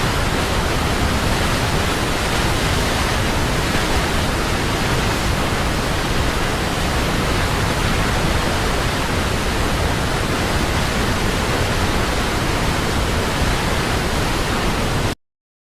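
Large waterfall's steady rush of falling water, cutting off suddenly near the end.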